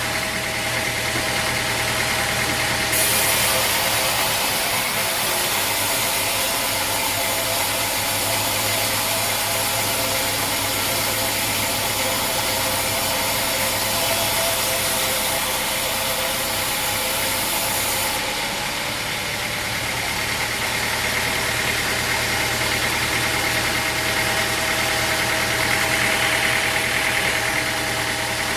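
Sawmill machinery running steadily with a constant hum and whine, and a loud high hiss from about 3 seconds in until about 18 seconds in.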